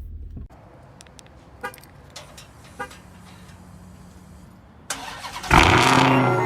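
A few faint clicks, then the Charger R/T's 5.7 Hemi V8 is started: a brief crank catches with a loud burst about five and a half seconds in and settles into a steady idle.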